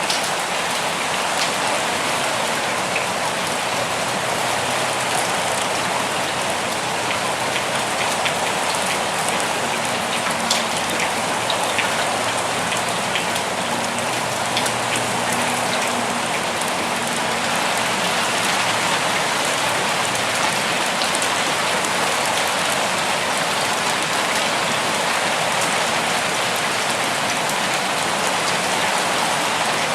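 Steady rain falling: an even, unbroken hiss with scattered individual drops ticking through it.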